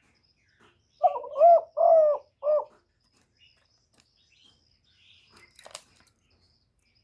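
Spotted dove cooing: one phrase of about four low, arched coo notes a second in, lasting under two seconds. A faint click follows near the end.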